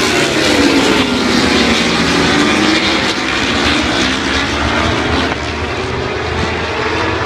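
MotoGP racing motorcycles passing at high revs, one after another, their engine pitch gliding and falling as each goes by.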